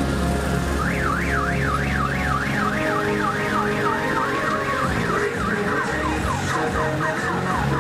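Electronic siren-style warble, a pitch sweeping up and down about three times a second, starting about a second in and speeding up near the end, over steady low droning tones.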